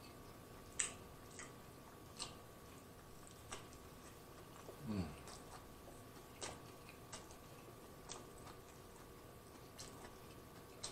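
Quiet close-mouthed chewing of a corned beef sub, with scattered soft wet mouth clicks. There is a short falling 'mm' about five seconds in.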